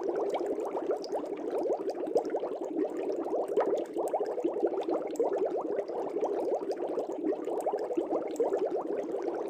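Air bubbles rising and burbling continuously in a fish tank, a dense steady stream of small quick bubble blips.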